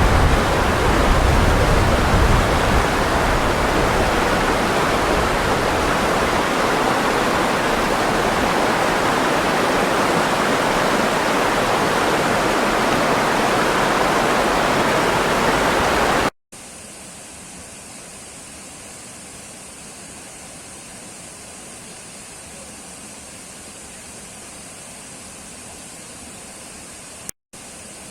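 Steady rush of flowing water that cuts off about 16 seconds in. After a brief gap a much quieter steady hiss follows, broken by another short dropout with a click near the end.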